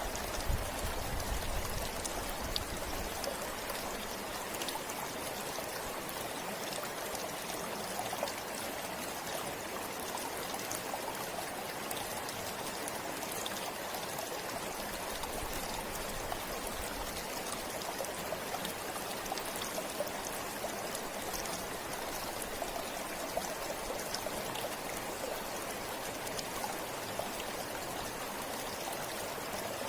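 River water flowing over stones, a steady rushing with small splashes and trickles throughout.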